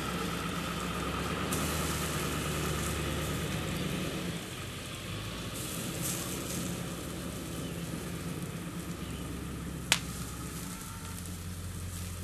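Diesel engine running steadily in the background, its level dropping a little about four seconds in, under the sizzle and crackle of chicken cooking over hardwood coals. One sharp click about ten seconds in.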